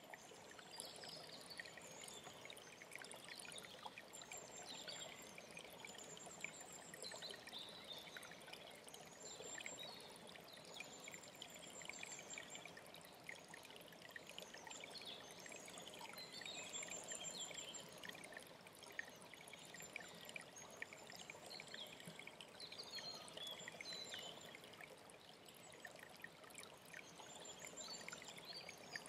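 A mountain stream trickling and splashing steadily. Small songbirds give high, thin repeated trills and scattered chirps over the water.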